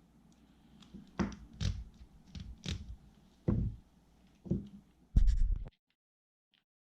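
A string of small knocks and clicks, about seven, from a screwdriver and tiny screws being handled while the screws are driven back into the housing of an Abu Garcia SX10 fishing reel, with the heaviest thump about five seconds in.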